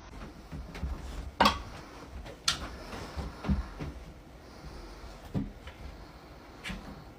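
Several separate knocks and bumps over a faint background, the loudest about a second and a half in.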